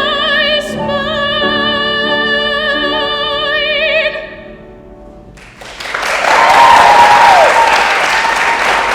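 A singer holds a long final note with wide vibrato over piano accompaniment, which stops about four seconds in. After a brief hush, the audience breaks into applause with a few whoops.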